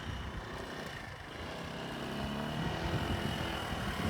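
Motorcycle engine accelerating, its note rising slightly and getting louder from about halfway through, as the bike sets off for a quick-stop braking practice.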